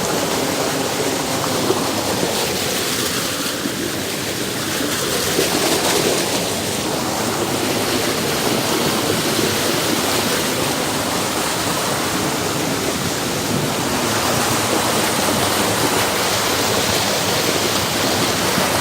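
Fast mountain creek rushing over rocks, a steady loud roar of churning water close by. The current is strong, a raging torrent.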